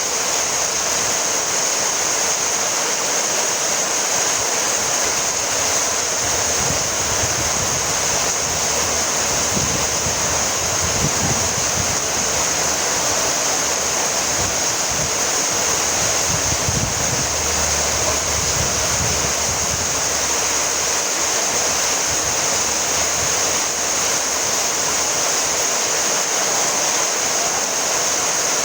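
Steady rainfall: a dense, even hiss of rain that holds constant without let-up, strongest in the high hiss.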